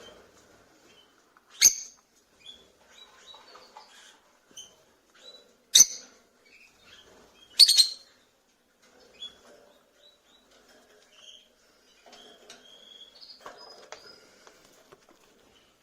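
Rosy-faced lovebirds chirping and twittering softly, with three loud, short calls in the first half.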